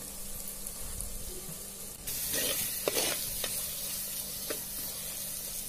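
Onions, mint and spices sizzling in groundnut oil and ghee in a clay pot: a steady sizzle that grows louder about two seconds in. A metal perforated ladle stirring the mixture gives a few short scrapes and knocks against the pot.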